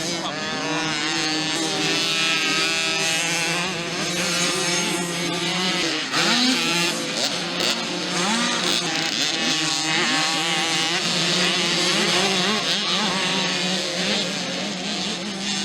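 Several 50cc mini motocross bikes racing, their small two-stroke engines overlapping and revving up and down in pitch.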